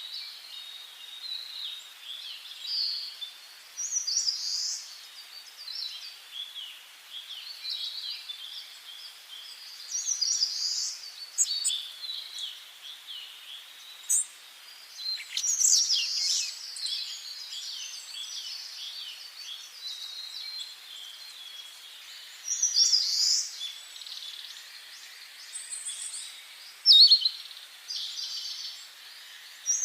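Several songbirds singing in a forest, short chirping and warbling phrases overlapping every second or two over a faint steady hiss, with louder, closer bursts about halfway through and near the end.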